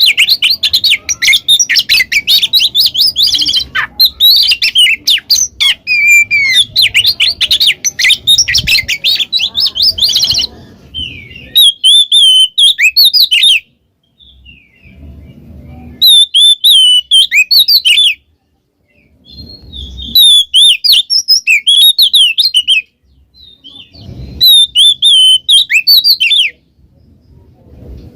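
Oriental magpie-robin (kacer) singing loudly. For about the first ten seconds it pours out a fast, dense run of chattering notes; after that come short clear whistled phrases of about two seconds each, repeated roughly every four seconds with pauses between.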